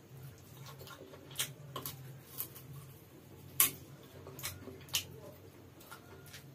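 Close-up eating sounds: sharp, wet mouth and lip clicks while chewing fried chicken off the bone, about six clicks, the loudest about three and a half seconds in, over a faint steady low hum.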